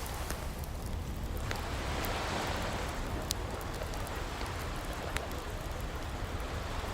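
Ocean waves washing in and out, a hiss that swells and fades over a few seconds over a steady low rumble, with a wood fire crackling on top: a few sharp pops scattered through it.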